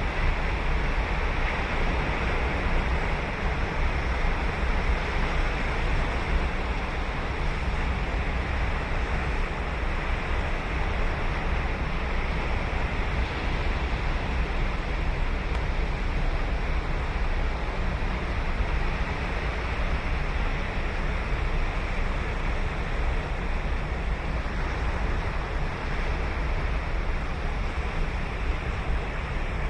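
Surf of Sagami Bay breaking and washing onto a sandy beach in a steady wash of noise, with wind on the microphone adding a low rumble.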